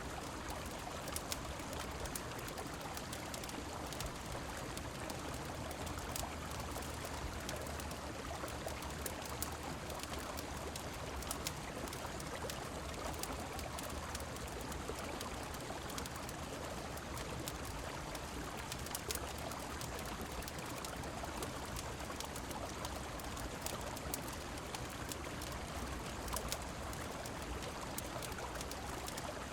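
Steady rush of flowing river water and falling rain, with scattered sharp crackles of a wood fire.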